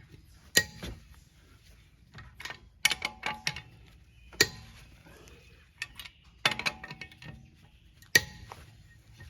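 Sharp metallic clanks and clicks of a lug wrench working on a wheel's lug nuts, in about five short clusters a second or two apart, as the lugs are loosened.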